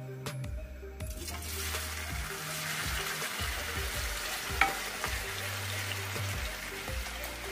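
Potato sticks frying in hot oil in a wok: the sizzle rises as they drop in about a second in, then carries on as a steady hiss while a wooden spoon stirs them. One sharp knock of the spoon against the pan about halfway through.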